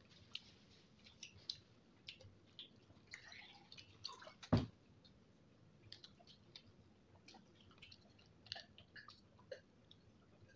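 A person chewing and smacking their lips close to the microphone: many soft, wet mouth clicks, with one sharper knock about halfway through.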